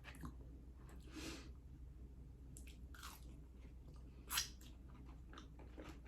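Close-up chewing and mouth sounds of a person eating, with a few short wet smacks or bites, the loudest about four seconds in.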